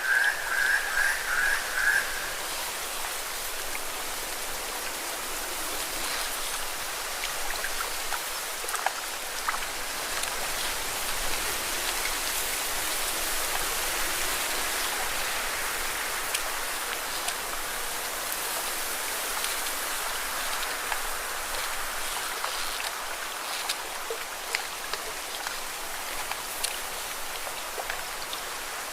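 Lake water washing and splashing against rocks: a steady watery hiss broken by small sharp splashes. A bird chirps rapidly for the first couple of seconds.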